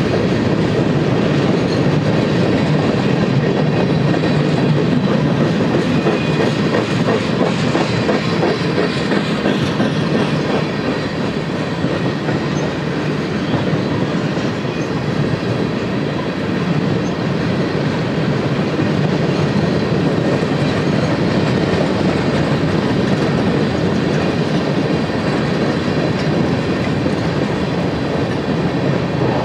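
Manifest freight train's tank cars and boxcars rolling past, a steady clatter of steel wheels on the rails.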